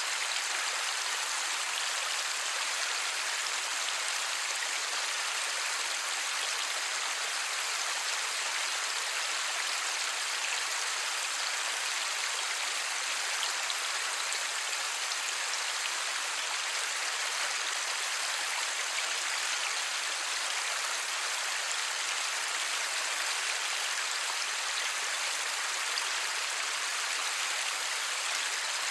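Steady light rain: an even hiss of many small drops with no thunder.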